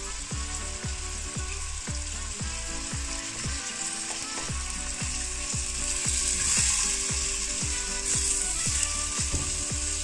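Mince, onion and tomato paste frying and sizzling in a hot stainless steel pot while being stirred with a spatula; the sizzle grows louder about six seconds in. Background music with a steady beat plays underneath.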